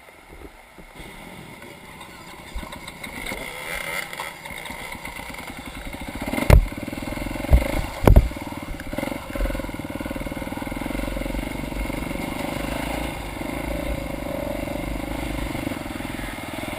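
Trail motorcycle engine running, growing louder over the first few seconds and then holding steady, with a few sharp knocks between about six and eight seconds in.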